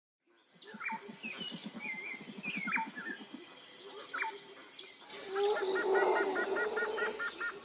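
A mix of bird calls: scattered chirps and whistles, a fast low pulsing call over the first few seconds, and a quick run of repeated paired chirps in the last two seconds.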